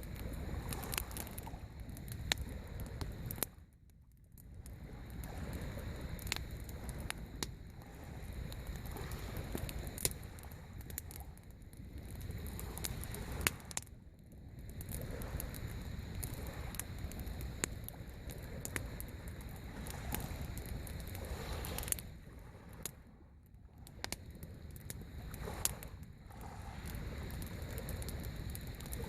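Waves washing onto the shore in swells that rise and fall, dropping away briefly every nine or ten seconds, with the sharp pops and crackles of a driftwood campfire throughout.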